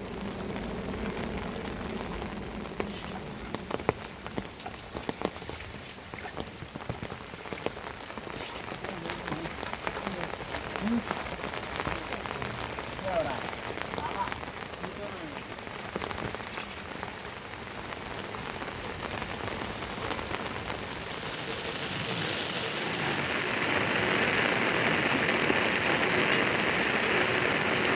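Rain falling steadily, with many separate drops ticking; it grows louder and heavier about three quarters of the way through.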